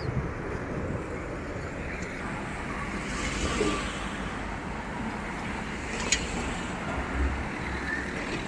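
Steady street traffic noise from passing cars, swelling briefly a few seconds in, with a single sharp click about six seconds in.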